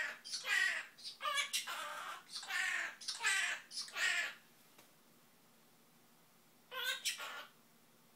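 Quaker parrot (monk parakeet) chattering in a quick run of short sing-song phrases, mimicking a tune, for about four seconds, then falling quiet before two more brief calls near the end.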